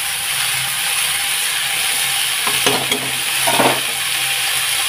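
Chopped leafy greens sizzling in hot oil in a pan as they are stirred, a steady frying hiss with a few scrapes and knocks of the stirring utensil against the pan between two and a half and three and a half seconds in.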